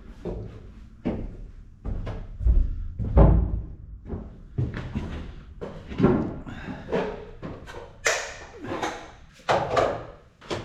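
A series of irregular thuds and knocks at uneven intervals, some heavy and deep, with sharper hits near the end, along with background music.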